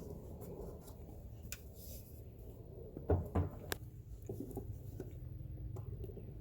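Handling of PVC pipe and fittings: a few sharp clicks and knocks about three seconds in, the loudest two close together, over a low steady outdoor rumble.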